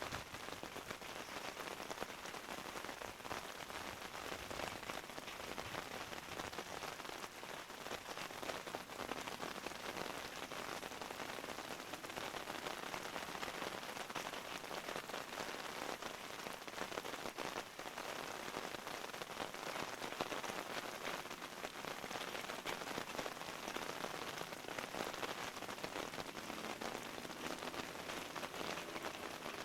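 Steady rain falling, a dense patter of drops on hard surfaces.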